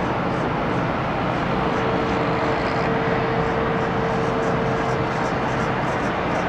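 Steady jet airliner noise at an airport: a continuous rush with a steady hum running through it.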